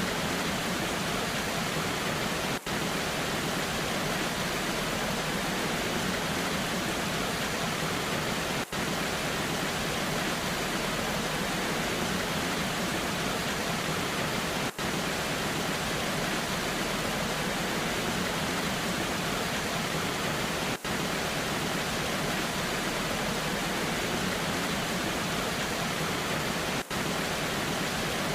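Waterfall in the rain: a steady, even rush of falling water, broken by a brief dip in level about every six seconds.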